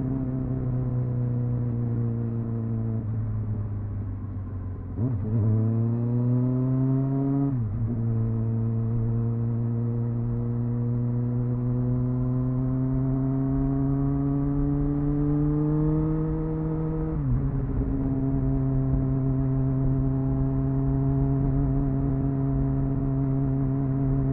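Triumph Speed Four's 600 cc inline-four engine through its stock exhaust, heard onboard while riding. The engine note falls about three seconds in, rises briefly, then drops sharply. It climbs slowly for about ten seconds, falls again at about seventeen seconds and then holds steady.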